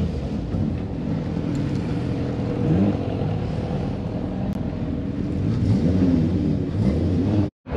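Car engines running at low speed, with a few short revs that rise and fall in pitch, about three seconds in and again near six seconds. The sound drops out abruptly for a moment near the end.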